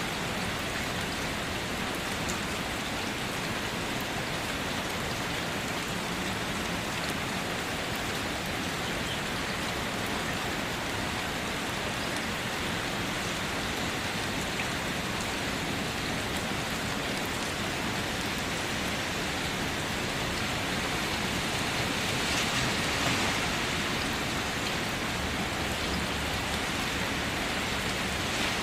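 Steady rainfall: rain falling on surfaces as an even hiss of drops, swelling slightly about two-thirds of the way through.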